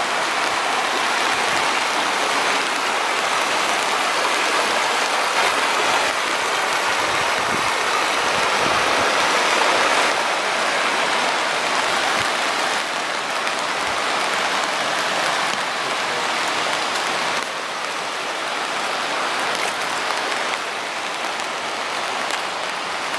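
Steady rushing noise of rain and running water.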